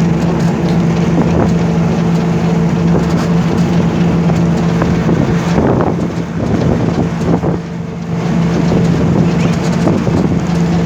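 A motor running with a steady low drone, under heavy wind rushing over the microphone. The engine tone fades for a few seconds in the middle, then comes back.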